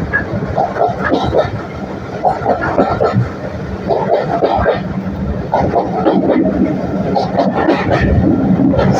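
Heritage railway train running along the line, heard from aboard: a steady rumble of wheels on track with a low hum underneath.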